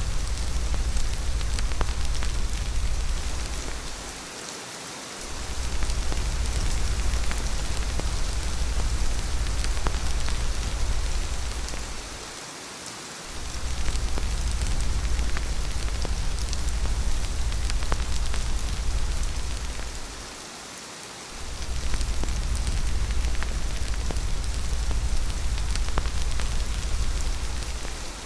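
Steady rain falling, with fine patter of individual drops over an even hiss and a deep low rumble underneath. The rumble drops out briefly about every eight seconds, around four, twelve and twenty seconds in, and the overall sound dips with it.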